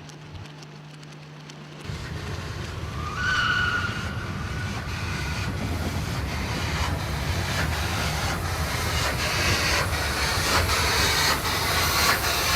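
A train running on rails, starting about two seconds in, with a brief high squeal and rail-joint clicks that come faster and louder as it approaches.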